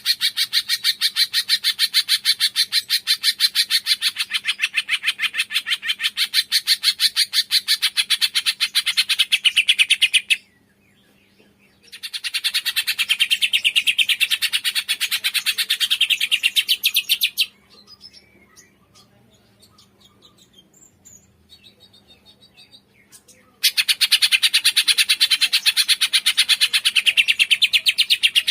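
Cungkok songbird singing long, rapid trills of high, evenly repeated notes, around ten a second. The trill breaks off about ten seconds in, starts again, then gives way to a few faint scattered chirps for about six seconds before the fast trilling resumes.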